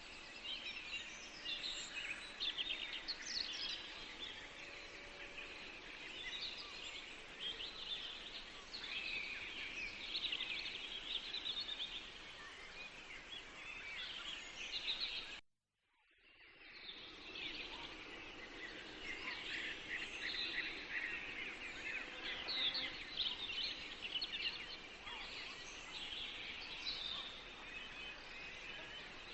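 Forest birdsong: several songbirds chirping and trilling together in a continuous chorus. About halfway through, the sound cuts out completely for about a second and then fades back in, like a splice in a looped recording.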